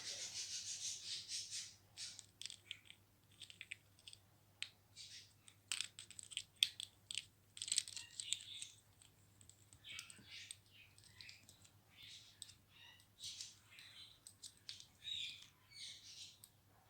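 Irregular clicking and rattling of small toys as a ringneck parrot handles them with its beak, with sharp ticks and short scratchy bursts coming every fraction of a second.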